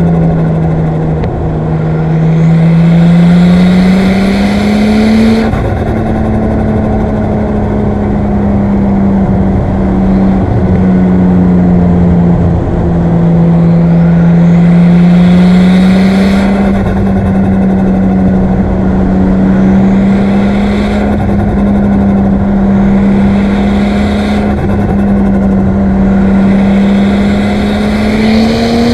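Nissan Skyline R34's single-turbo RB25DET NEO straight-six driving under part throttle, its note rising slowly, holding and easing back. Several times a rushing hiss builds with the throttle and cuts off sharply as the throttle lifts.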